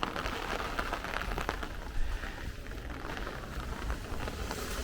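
Rain falling steadily on wet pavement, an even hiss full of small drop impacts.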